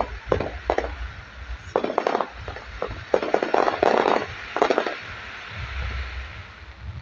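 Fireworks going off: irregular clusters of sharp bangs and crackles, with a low rumble underneath.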